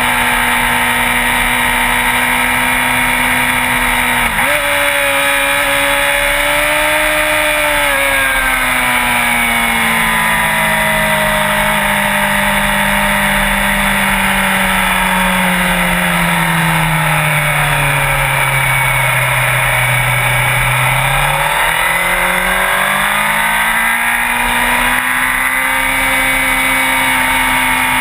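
Sport bike engine running while riding, under heavy wind rush. The engine note steps up about four seconds in, sinks slowly through the middle as the bike slows, then climbs again near the end as it speeds up.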